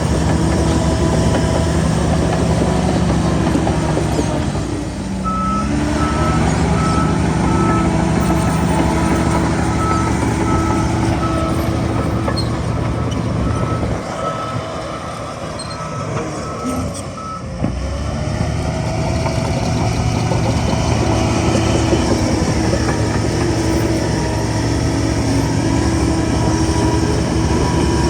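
Heavy diesel earthmoving machinery running steadily, with a reversing alarm beeping at an even rate for about twelve seconds. The engine eases off and changes pitch twice along the way.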